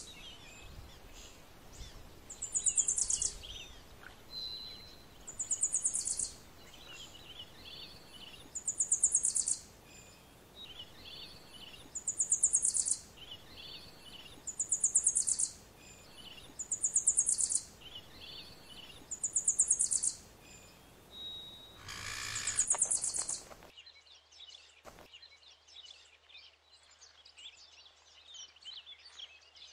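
A bird repeating a high, rapidly pulsed trill about a second long, eight times at even intervals of two and a half to three seconds, with softer chirps in between. The calls stop abruptly about 24 seconds in, and only faint chirping is left.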